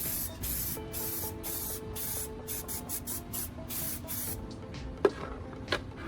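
Aerosol can of black spray paint spraying in a run of about a dozen short hissing bursts over the first four seconds or so, then two sharp clicks near the end.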